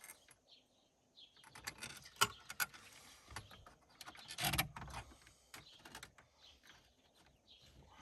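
A small hand wrench tightening an oil pressure gauge's mounting nut under a dashboard: scattered metallic clicks and scrapes, with a louder clunk about halfway through.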